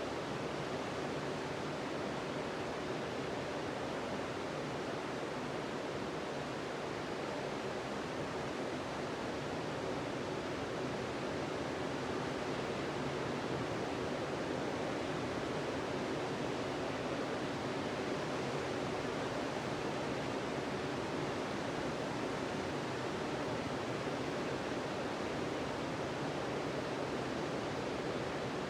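Sea surf washing on the beach: a steady, even rush of breaking waves with no distinct single crashes.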